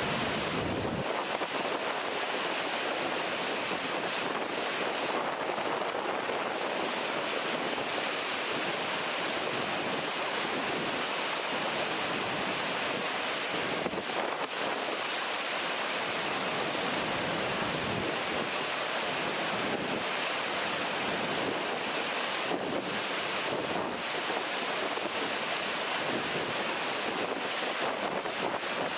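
Steady rush of river water pouring over a weir in a waterfall-like flow.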